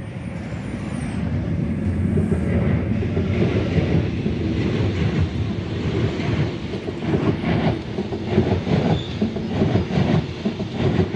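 Sydney Trains OSCAR (H-set) electric multiple unit passing close along the platform. It rumbles louder over the first few seconds, then holds steady, with the wheels clicking over rail joints in a run of clacks in the second half.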